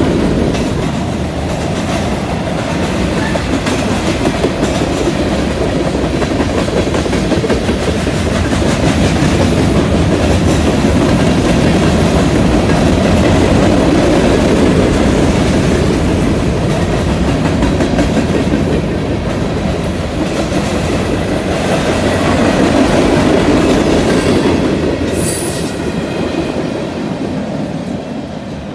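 Freight train cars (tank cars and covered hoppers) rolling past, a steady rumble with wheels clacking over the rail joints, fading near the end as the last cars pull away.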